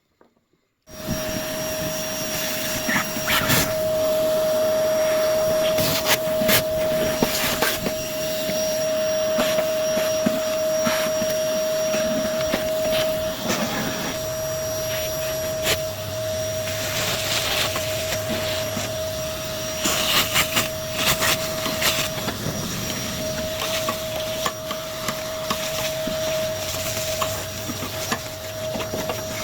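Vacuum cleaner starting up about a second in and running with a steady whine, with scattered clicks and scrapes as the nozzle works over the heater parts and sucks up dirt.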